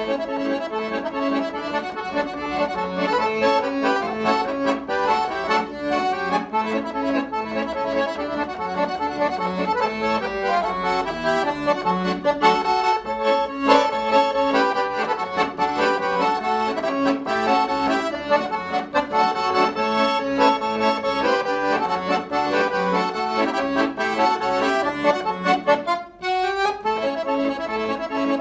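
Forró music led by accordion, playing a busy melody over a steady beat, with a brief break about two seconds before the end.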